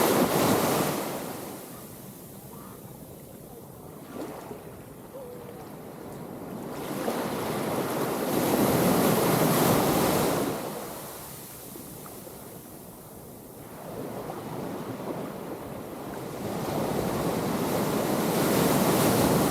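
Ocean surf: waves breaking and washing up the shore, swelling and fading three times about nine seconds apart.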